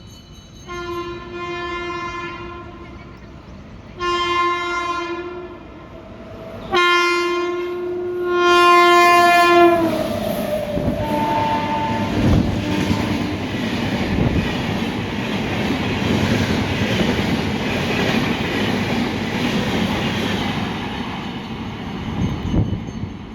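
A passing train's horn sounds three blasts. The last blast drops in pitch as the train goes by at speed, and the coaches then rush and clatter past until near the end.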